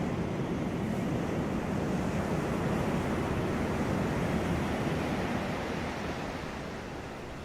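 Sea waves washing on a beach, a continuous surf rush that swells slightly and then eases off near the end.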